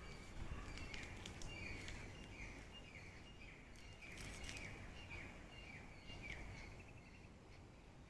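A bird calling from the trees, repeating a short falling chirp about twice a second, faint over a low background rumble.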